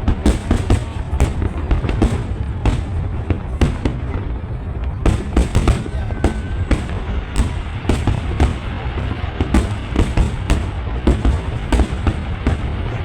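Fireworks going off in a continuous barrage: many sharp bangs and crackles, several a second, over a steady low rumble.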